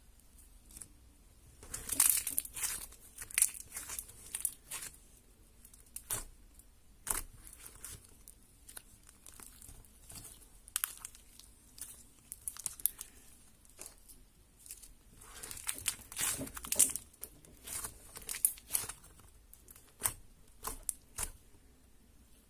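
Hands kneading, stretching and pressing glitter slime. It makes irregular sticky pops, clicks and crackles, coming in busy flurries with short quieter gaps.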